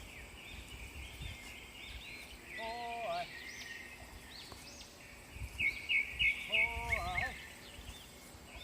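Small birds chirping repeatedly over a steady high chirring, with two short pitched calls, one about three seconds in and one about seven seconds in, and a low rumble in the second half.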